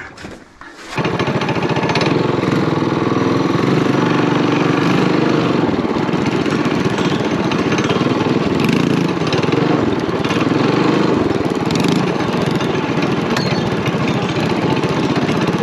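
Small single-cylinder Coleman mini bike engine running steadily under way, starting abruptly about a second in.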